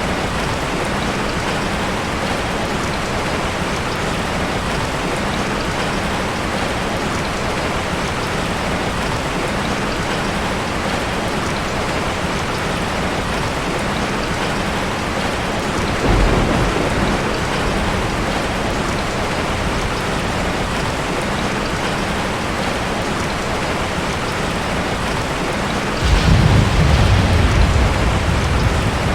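Heavy rain falling steadily on a tin roof, an even hiss, with two low rumbles of thunder: a short one a little past halfway and a louder one that starts suddenly near the end.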